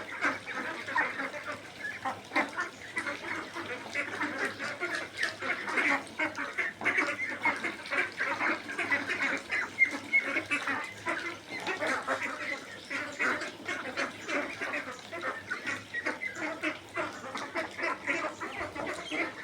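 A flock of ducks quacking, many calls overlapping in a continuous din.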